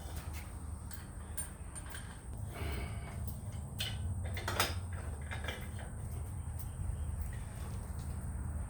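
A few light metallic clicks and a scrape from hitch hardware being handled, over a low steady rumble.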